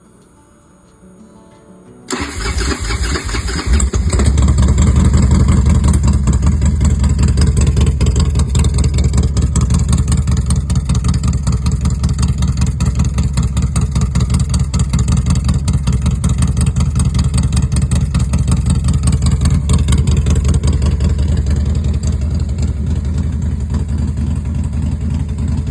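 Harley-Davidson Dyna's V-twin engine starting about two seconds in, catching abruptly, then running at a steady, loping idle.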